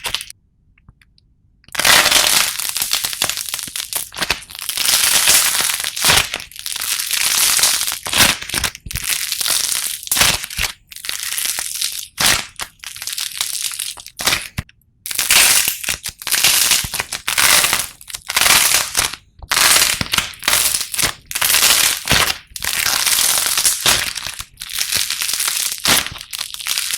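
Slime being squeezed and pressed by hand, crackling and crunching in repeated bursts of a second or two each, with a short pause just after the start.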